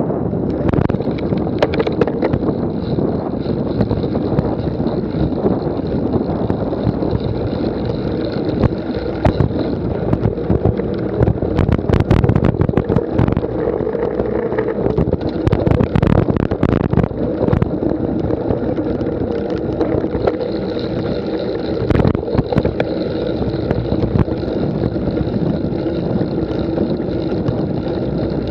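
Wind buffeting the microphone of a cyclocross bike, mixed with the rattle and knocks of the bike riding over a rough course. There is a cluster of sharper knocks around the middle.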